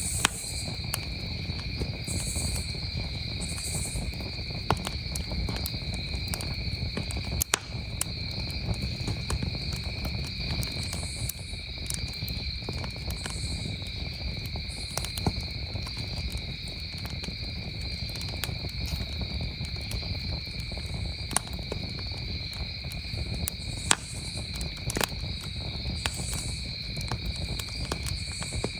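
Campfire crackling, with scattered sharp pops and a few louder snaps, over a steady chorus of crickets trilling.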